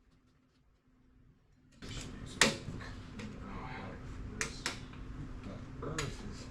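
A few sharp metallic clicks and clinks of drum-brake parts being handled and fitted, the loudest about two and a half seconds in, over a steady low hum that starts a couple of seconds in.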